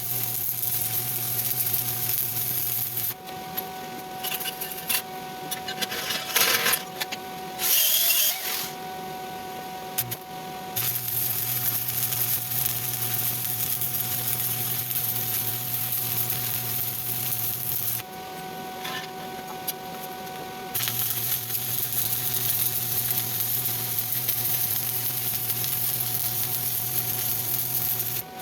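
Stick welding arc on steel plate, a steady crackling hiss with a low hum underneath. It breaks off about three seconds in, with a couple of short loud scrapes or knocks during the pause, and starts again about eleven seconds in. It stops again for a few seconds around eighteen seconds in, then runs on.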